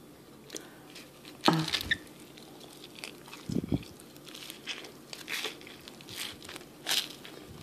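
Chewing a big mouthful of loaded fried egg sandwich: scattered wet mouth smacks and clicks, with a brief hum about one and a half seconds in and a soft low thump midway.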